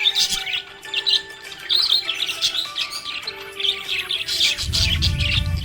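Budgerigars chirping and warbling in quick short calls over background music with long held notes. A low rumble comes in near the end.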